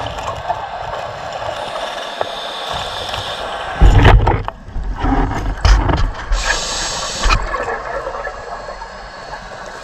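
Water rushing and gurgling, with a heavy low thump about four seconds in and a hiss lasting about a second midway through.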